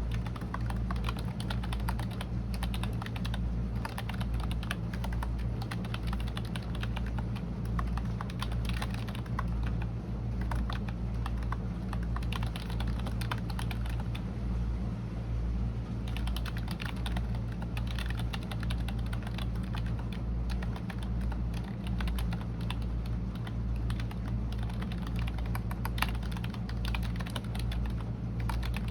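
Computer keyboard typing: quick, irregular keystroke clicks with a short pause about halfway, over a steady low hum.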